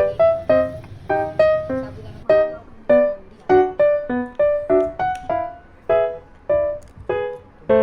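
Background piano music: a steady run of single struck notes, several a second.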